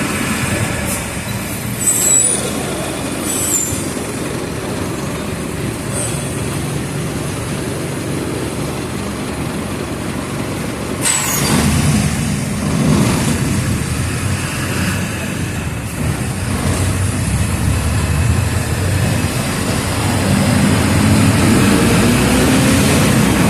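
Mercedes-Benz OF 1722M city bus engine running while the bus is driven, with a short sharp burst of air hiss about halfway through. Near the end the engine pitch climbs and gets louder as the bus accelerates.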